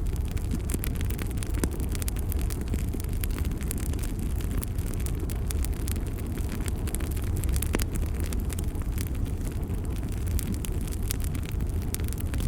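Bonfire burning: a steady low rumble of flame with many sharp crackles and pops scattered throughout.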